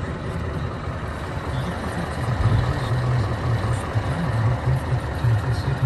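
Scania R 560 truck's V8 diesel engine running, its low rumble swelling louder a little past two seconds in.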